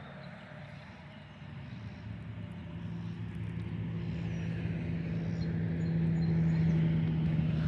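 A steady engine hum, growing gradually louder as if a motor vehicle is drawing near.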